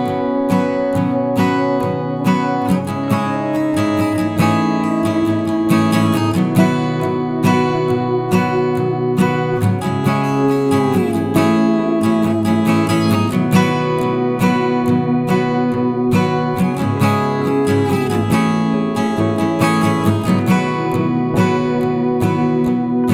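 Acoustic guitar music, plucked and strummed, with some sliding notes.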